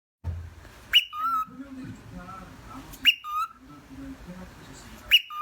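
A shrill whistled call, a sharp upward sweep to a high note and then a lower wavering note, repeated three times about two seconds apart.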